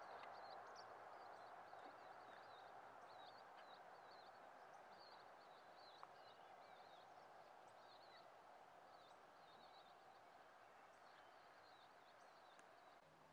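Faint outdoor ambience: small birds chirping in short, quick calls again and again, over a soft steady rush that slowly fades.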